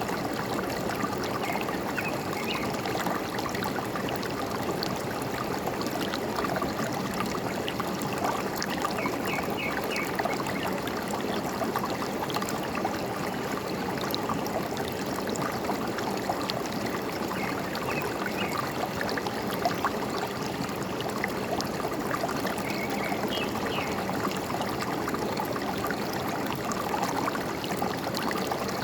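Forest stream flowing and trickling steadily, with short bird chirps a few times.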